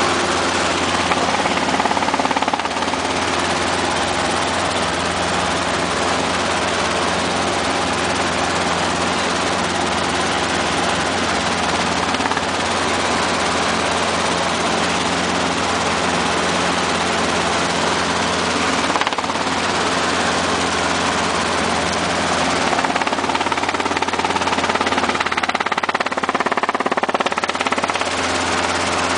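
Robinson R22 helicopter's four-cylinder piston engine and rotor running steadily, a constant mechanical drone with a loud hiss and no rise or fall in level.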